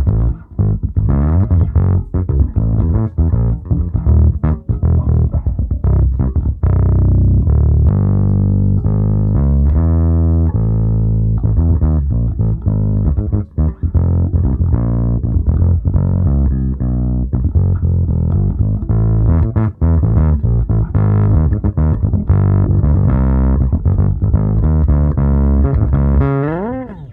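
Electric bass guitar played through a bass amplifier and a real speaker cabinet, a continuous riff of plucked notes with fast runs, ending in a slide up the neck just before it cuts off.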